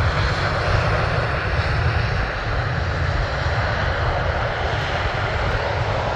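Jet airliner's engines passing close on approach to land, a steady loud jet noise that slowly fades away.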